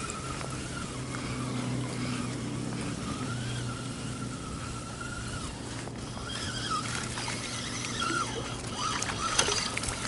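Motorboat engine running steadily out on the lake: a low hum with a higher whine that wavers in pitch. A few clicks and splashes come near the end.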